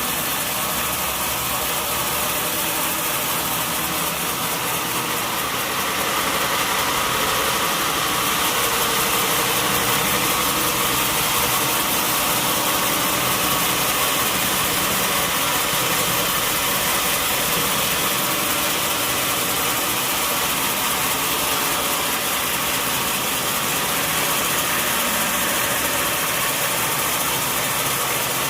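Sawmill machinery running steadily, a loud continuous mechanical drone that gets a little louder about six seconds in.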